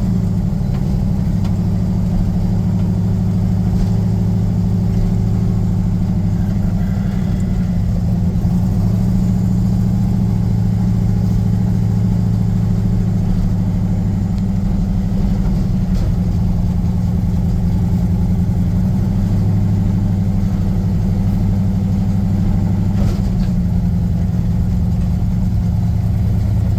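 Turbocharged LS V8 of an OBS Chevy pickup idling steadily with a deep, even rumble, holding a constant speed without revving.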